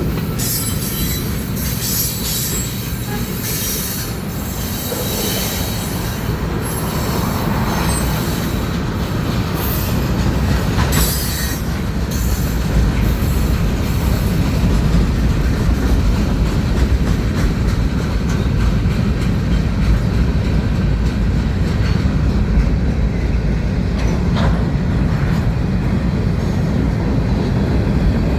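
Freight cars of a manifest train rolling past steadily, wheels rumbling and clattering on the rails, with high metallic wheel squeal through roughly the first half that fades later on.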